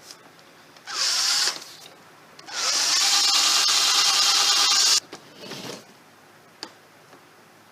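Power drill boring screw holes into a wooden table leg for a cup caster: a short spin-up about a second in, then a longer steady run of about two and a half seconds that stops suddenly, and a brief burst just after.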